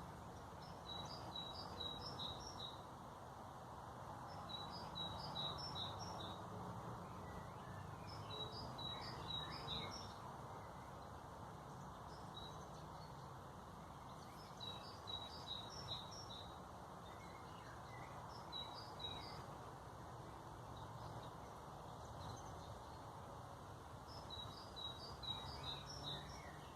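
A small songbird singing short phrases of quick notes alternating between a higher and a lower pitch, each phrase repeated every few seconds, over a steady low background rumble.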